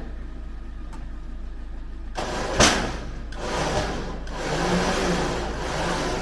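A vehicle engine running and rising and falling in revs, with one sharp clunk about two and a half seconds in.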